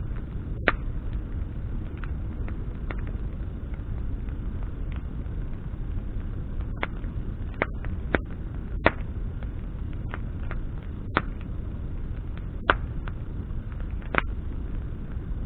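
Wood campfire burning with a steady low rumble of flame, and the branches crackling in about ten sharp, irregular pops.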